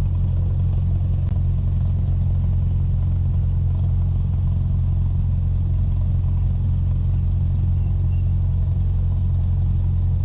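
Cessna 172's piston engine and propeller running steadily, heard from inside the cockpit as a constant low drone that does not change in pitch.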